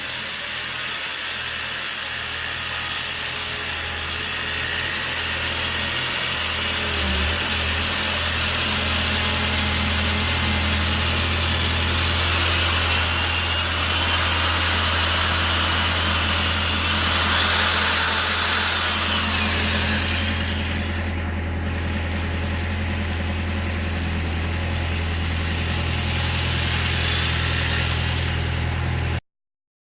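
Power tool running steadily while working steel plate, with a constant hum and a high whine that slowly shifts in pitch. It stops abruptly near the end.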